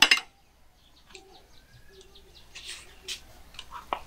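Birds chirping faintly, with a quick run of short high chirps a second or so in, after a brief loud burst of noise right at the start.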